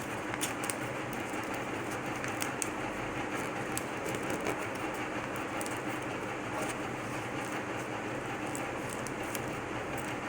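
Paper being folded and creased, with scattered short crackles, over a steady rumbling background noise with a faint hum.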